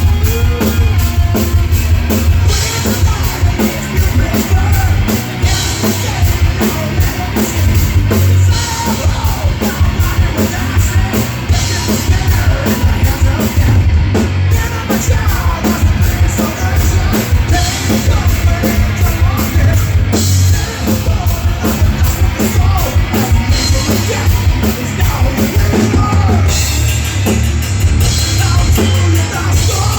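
Live heavy rock band playing: drum kit with steady beats, electric guitars and bass, and vocals, with stretches of crashing cymbals that come and go every few seconds.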